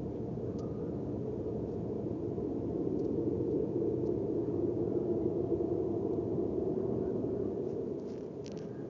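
Unexplained low, steady roaring rumble, swelling around the middle and easing off near the end.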